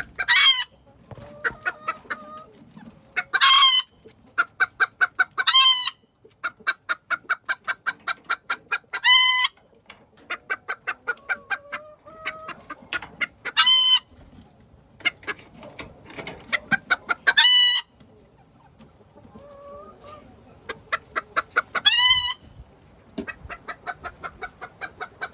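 Chickens clucking in quick runs of short notes, broken about seven times by a loud, shrill squawk.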